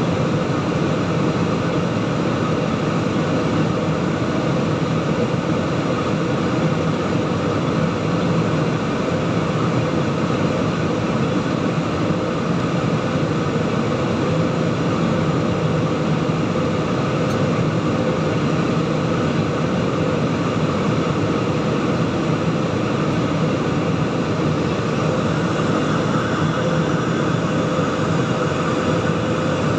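Jet airliner cabin noise in flight: a steady rush of engine and airflow with a low hum underneath.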